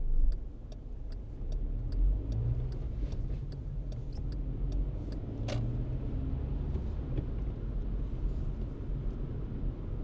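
A car driving in city traffic: a steady low road-and-engine rumble. Over the first three and a half seconds there is a run of regular ticks, about two to three a second, and a single sharp high chirp comes about five and a half seconds in.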